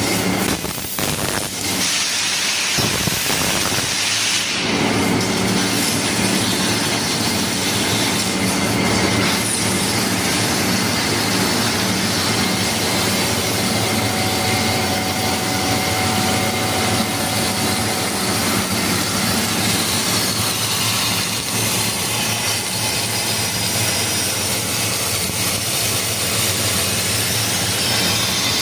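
Fiber laser cutting machine cutting 16 mm metal plate: a steady hiss of the cutting gas jet over a low machine hum, with a brighter, higher hiss in the first few seconds.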